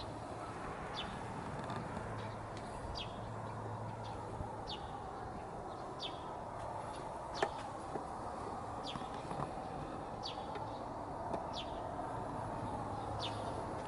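A bird repeating a short, high, falling call about once every second or so over steady outdoor background noise, with a single sharp click about halfway through.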